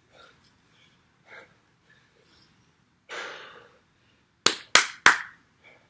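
Three sharp slaps in quick succession, about a third of a second apart, a second or so after a short breathy rush of noise.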